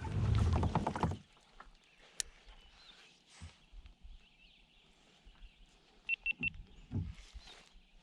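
A second of louder handling noise in the kayak, then quiet open-water ambience with a few soft knocks on the hull and a bird's three quick high chirps about six seconds in.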